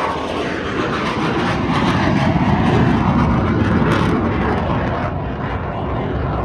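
A fixed-wing aircraft flying past, its engine noise a loud rush that fades away as the plane recedes near the end.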